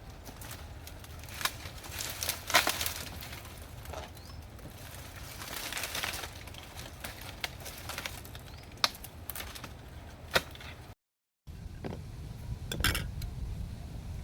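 Scattered sharp clicks, clinks and cracks of objects being handled, over a steady low rumble. The sound cuts out completely for a moment about eleven seconds in.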